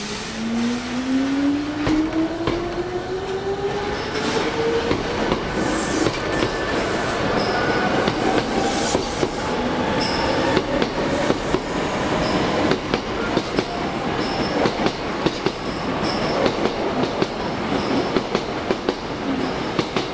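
Hankyu 7300 series commuter train pulling away from the platform: its motors whine, rising steadily in pitch over the first five seconds, then a run of wheel clicks over the rail joints as it gathers speed.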